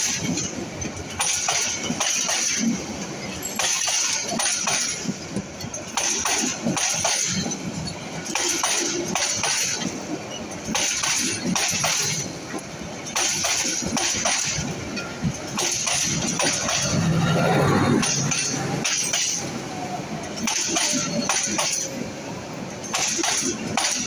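Chattala Express passing on Bangladesh Railway: wheels clacking over the rail joints in pairs about every two and a half seconds, one pair for each passing coach, over a steady rumble.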